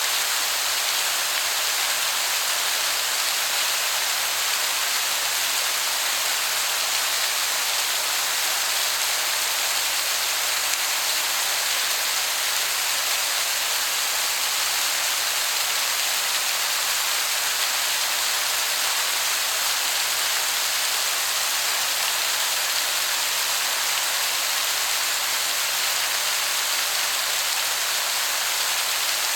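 Waterfall, heard from a distance where its steady hiss sounds like heavy rain.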